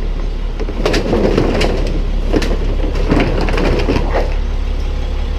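Plastic car-part trash being handled and tossed into a trash can: rustling with several sharp clatters and knocks, over a steady low engine hum.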